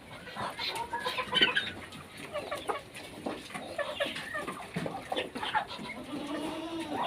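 A flock of chickens clucking while they feed, many short overlapping calls, with a longer drawn-out call near the end.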